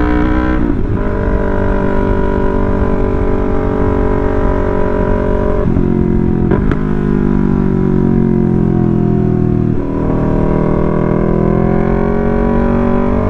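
Yamaha R3's 321 cc parallel-twin engine running under way through a loud exhaust, its pitch dropping and changing at several gear changes and rising steadily near the end as it accelerates.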